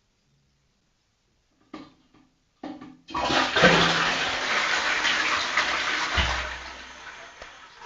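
Toilet flushing. After two short clicks, a loud rush of water starts about three seconds in and eases off over the last couple of seconds.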